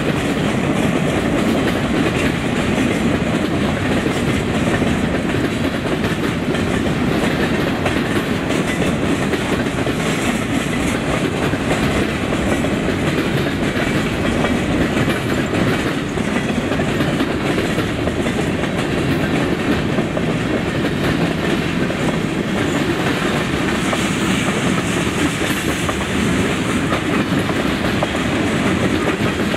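A train's cars rolling past at close range, a steady rumble with the clickety-clack of wheels over rail joints.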